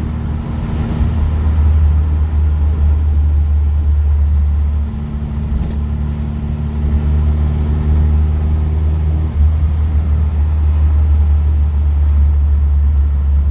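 Classic car's engine running under way, heard from inside the cabin as a loud, low drone. The engine note dips briefly about five seconds in and settles at a new steady pitch, then shifts again a little after nine seconds.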